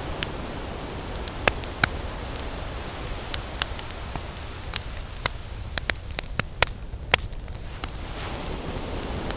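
Campfire crackling, with irregular sharp pops and snaps over a steady wash of surf; the wash thins about seven seconds in and swells back.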